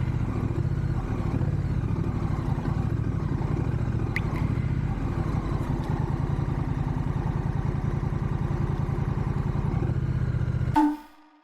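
Honda Rebel 1100's parallel-twin engine running steadily under way, a dense low pulsing that cuts off suddenly near the end.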